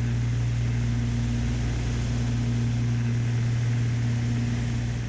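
Twin piston engines and propellers of a Beechcraft Baron B55 droning steadily in flight, heard inside the cabin as an even low hum with a faint higher tone over a wash of airflow noise.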